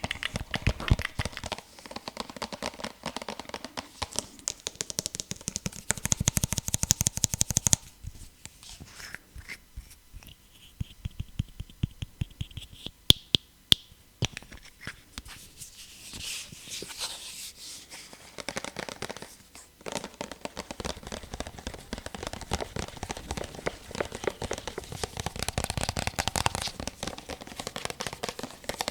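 Rapid tapping and scratching on objects close to the microphone, as in ASMR tapping, with a few sharp, loud clicks about halfway through.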